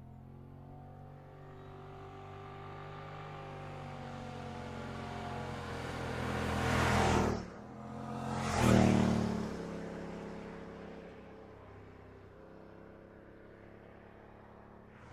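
A car's engine under acceleration, building to a loud peak about seven seconds in, breaking off briefly, peaking again near nine seconds, then easing off to a steady lower drone.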